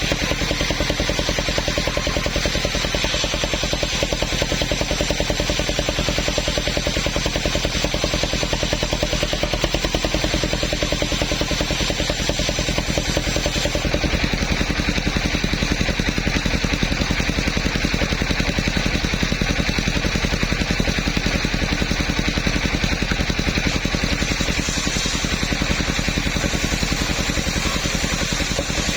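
Engine of a mobile sawmill running steadily with an even, rapid chug; the sound shifts slightly about halfway through.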